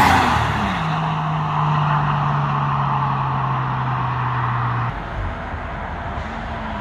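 Toyota Aristo's 2JZ-GTE twin-turbo straight-six driving past at speed, its note falling in pitch as it goes by, then holding a steady tone for a few seconds before the throttle comes off about five seconds in.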